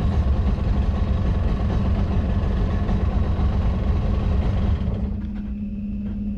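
An engine running steadily with a deep rumble and a constant hum. About five seconds in the rumble drops off sharply, leaving a quieter steady hum.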